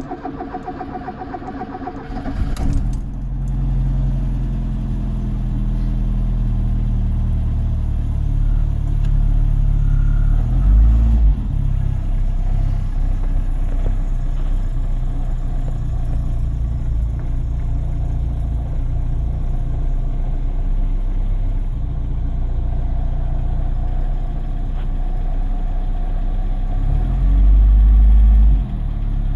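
Mk4 Ford Escort's 1.3-litre four-cylinder petrol engine cold-started: the starter cranks for about two and a half seconds, then the engine catches and settles into a steady idle. The revs rise briefly twice, once about eleven seconds in and again near the end.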